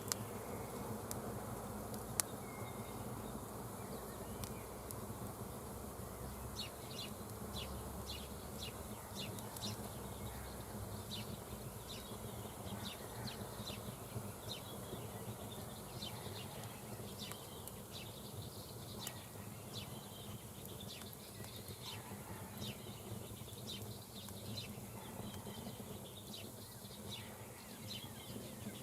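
Campfire burning, with many small, quick crackles through the middle over a steady low hum.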